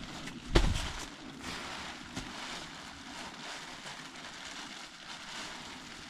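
Nylon inflatable air couch being filled by scooping air into it: rustling and whooshing of the fabric, with one loud whump about half a second in.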